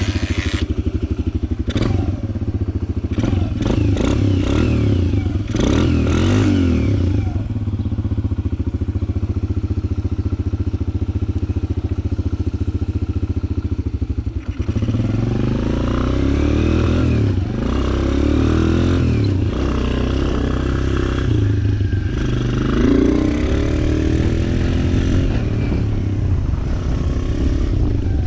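Suzuki DR-Z125 dirt bike's single-cylinder four-stroke engine, big-bored to 150, running just after starting with throttle blips that rise and fall in pitch. About halfway through it briefly drops away, then revs up and down over and over.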